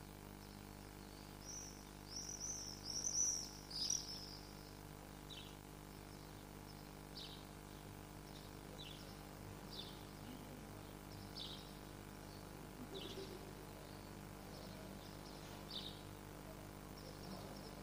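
A bird chirping outdoors: a short loud run of high chirps about two to four seconds in, then single short falling chirps roughly every second and a half. Under it runs a steady low hum.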